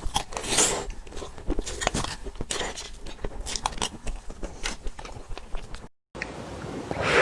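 Close-miked eating of dessert: wet bites and chewing in a dense run of short clicks and smacks, broken by a moment of dead silence about six seconds in.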